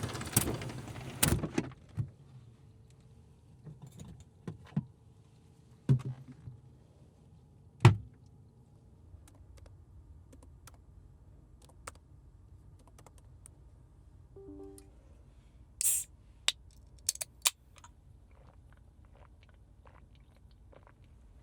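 Scattered handling noises: a rustling burst at the start, two heavier thumps, then a string of sharp clicks. A short electronic beep sounds about fourteen and a half seconds in.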